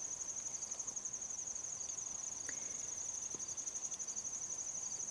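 Insects trilling steadily, a high, fast, even pulsing chirr that goes on without a break.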